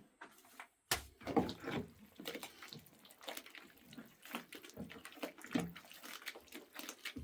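Water splashing and sloshing in irregular bursts, with a sharp knock about a second in.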